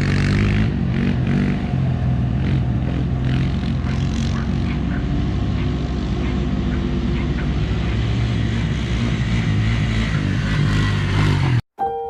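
Farm quad bike engine running steadily under way, its pitch shifting only slightly. It cuts off abruptly near the end.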